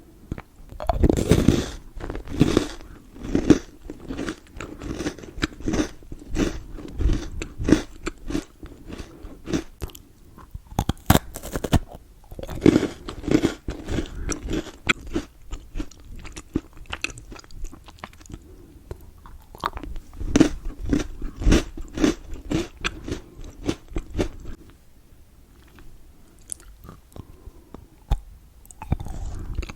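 Close-miked biting and chewing of Milka chocolate: sharp snapping clicks from bites, coming in three louder bursts, with quieter chewing between.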